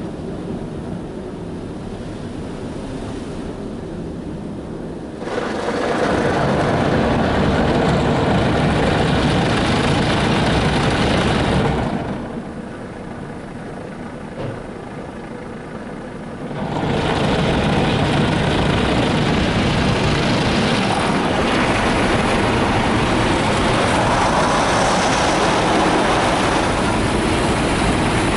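Mark VII ChoiceWash XT automatic car wash working over a truck, heard from inside the truck as a steady wash of water and brush noise. It swells loud about five seconds in, eases off for a few seconds near the middle, then comes back loud for the rest.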